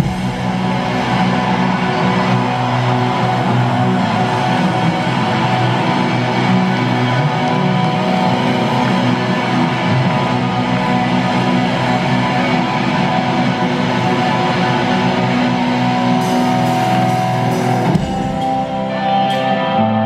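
Live rock band playing loud with electric guitars and drums. About eighteen seconds in the playing breaks off briefly and held guitar chords ring on.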